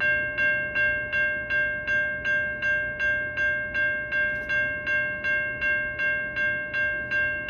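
Railway level-crossing warning bell starting suddenly and ringing in an even rhythm of about three strikes a second: the crossing signals have activated for an approaching train.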